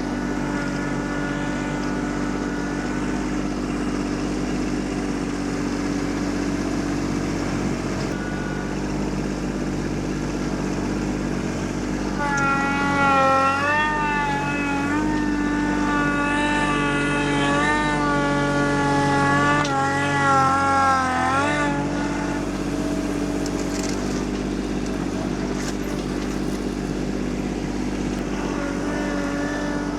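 Kubota LX2610 compact tractor's diesel engine running steadily while working the front loader at a stone pile. A louder, wavering whine rides over it from about twelve seconds in to about twenty-two seconds, then the engine settles back to its steady note.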